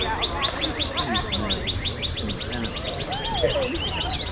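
A songbird singing a fast, even trill of quick high notes, each sliding downward, about ten a second, lasting nearly four seconds.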